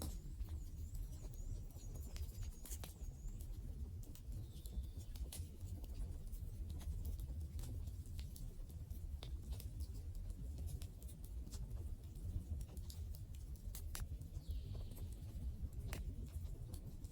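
Wood fire burning: a low, steady rumble of flames with irregular sharp crackles and pops from the burning wood.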